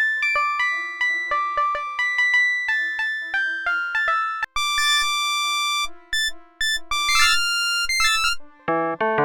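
FM synthesizer presets playing short melodic phrases of notes that start sharply and fade. A single note is held about five seconds in, followed by quicker high notes. Near the end a lower, fuller preset comes in with chords.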